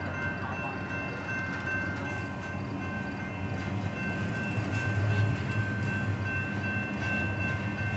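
Long freight train of empty intermodal cars rolling past: a continuous rumble of wheels on rail, with a couple of steady high-pitched tones above it. The rumble grows louder about five seconds in.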